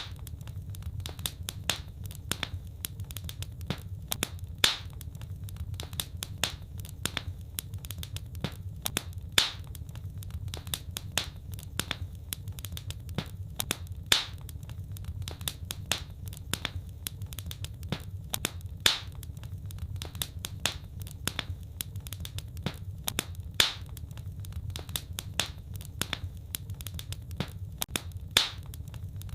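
Fireplace fire crackling: a constant patter of small sharp pops, with a louder pop about every five seconds, over a steady low rumble.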